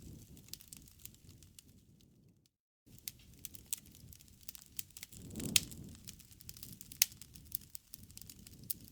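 Campfire crackling: a low rumble of burning wood with many small snaps and pops, two louder pops in the second half. The sound cuts out completely for about half a second some two and a half seconds in.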